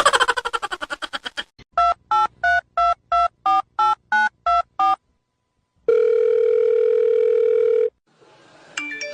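Telephone keypad dialing tones: a fast rattle of clicks, then about nine short two-tone beeps of changing pitch, then after a pause one steady ringing tone on the line lasting about two seconds.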